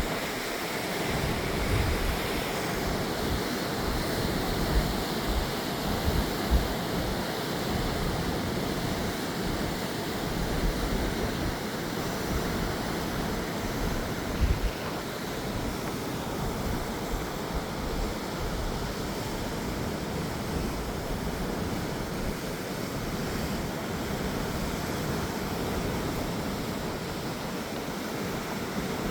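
Small Mediterranean waves breaking and washing on the beach, a steady hiss of surf, with gusts of wind buffeting the microphone now and then.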